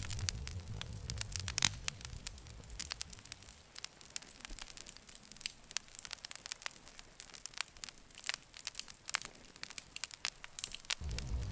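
Wood campfire crackling, with irregular sharp pops. A low rumble underneath drops away a few seconds in and comes back near the end.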